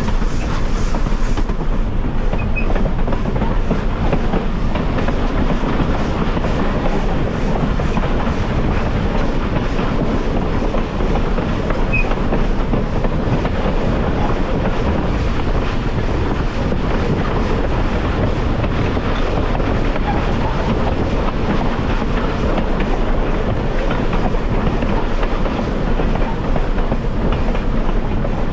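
Railway passenger car rolling along the track: a steady rumble of wheels on rail with clickety-clack from the rail joints.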